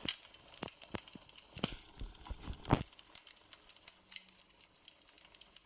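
Campfire crackling: irregular sharp pops and snaps over a faint hiss, with one louder pop a little under three seconds in.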